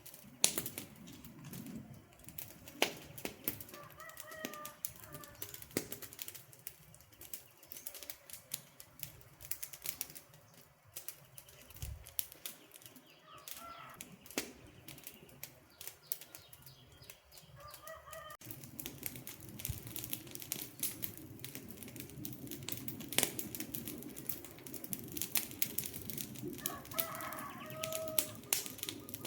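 Campfire crackling with frequent sharp pops over a low rush of flame. A bird calls four times in short bursts behind it.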